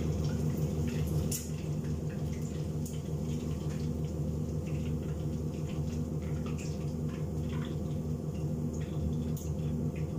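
Chicken frying in hot oil in a pan, with scattered crackles and light pops and occasional clicks of metal tongs against the pan, over the steady low hum of a kitchen range-hood fan.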